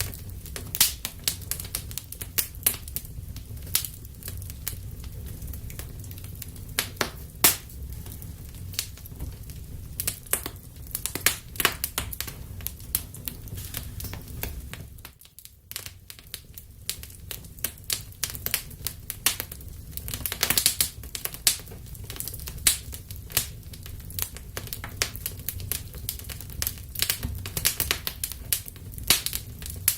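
Wood fire burning in a fireplace: irregular sharp crackles and pops over a steady low rumble of the flames. The sound briefly drops away about halfway through.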